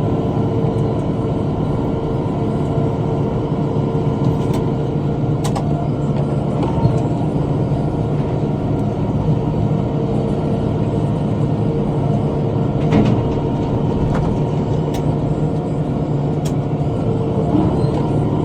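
Tractor engine and rotary cutter (bush hog) running steadily while mowing, with a few brief sharp ticks over the top.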